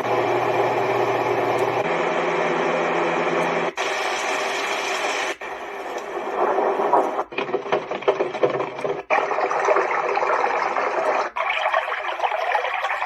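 Magicteam sleep sound machine stepping through its built-in sounds, about seven in all: each steady, noise-like recording plays for roughly two seconds, then cuts out briefly and a different one starts.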